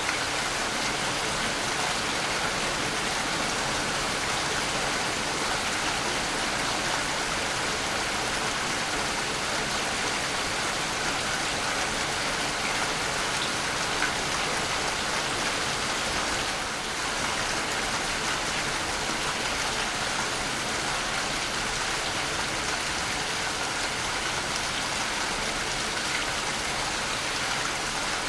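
Waterfall: a steady, even rush of falling water, with a brief slight dip in level a little past halfway.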